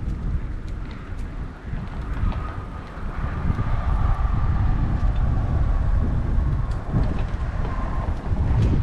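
Bicycle riding on a trail: wind buffeting the camera microphone and rolling tyre noise make a loud, uneven rumble, with a thin steady whine from about two seconds in until near the end.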